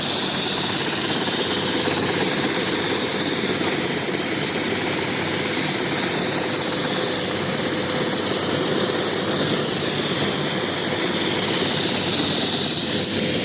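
Air ambulance helicopter's turbine engines running steadily, with a high whine over the rotor noise.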